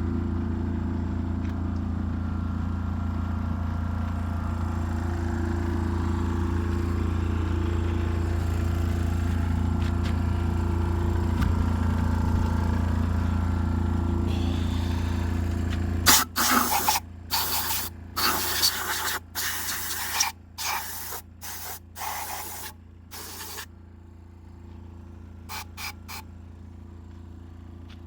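An engine runs steadily for a little over half the time, then drops away. It is followed by a run of short, loud hissing spray blasts, each lasting about a second, with two small spurts near the end.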